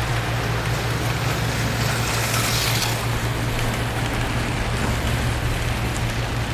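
Auto World Thunderjet HO slot cars racing on the track, their small electric motors and pickups giving a steady whirring hum, with a brighter, louder whir as a car passes close about two to three seconds in.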